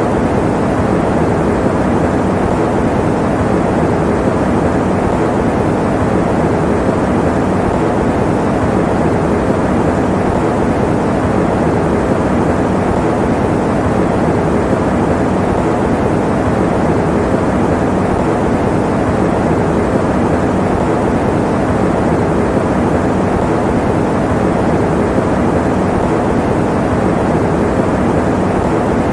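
Electric fan running steadily: a constant, even rushing noise, weighted to the low and middle range, with no change in speed or pitch.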